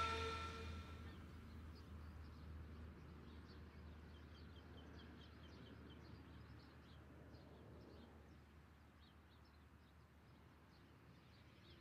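Rock music fading out in the first second, then faint outdoor ambience with small birds chirping over and over.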